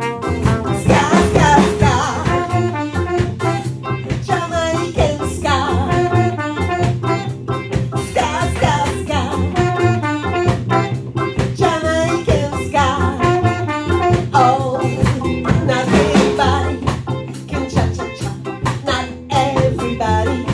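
Sixties-style Jamaican ska played by a band, with a female singer over a brisk, steady offbeat rhythm of drums, double bass, guitar and keyboard.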